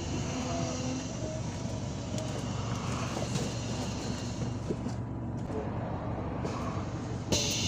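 Inside a MAZ-257 bus on the move: steady engine and road noise with a low hum. Near the end a sudden hiss sets in and stays.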